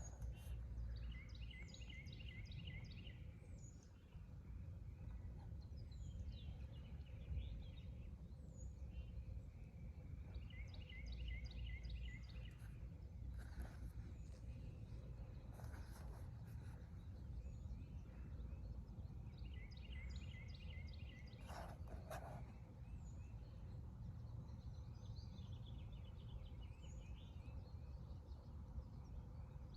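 Wild songbirds singing outdoors. One bird repeats a short phrase of rapid notes about every nine seconds, while others give scattered chirps and slurred notes. A steady low rumble of background noise runs underneath.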